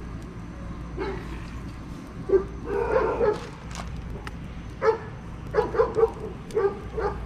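A dog barking and yipping in a loose series of short calls, several in quick succession in the second half. A few sharp pops from the campfire come in between.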